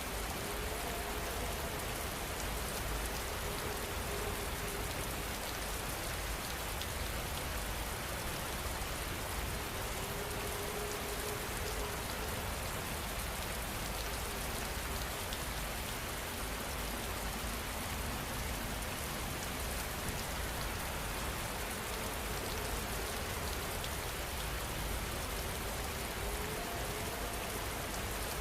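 Steady rain falling: an even, unbroken hiss of many drops with a deep rumble underneath.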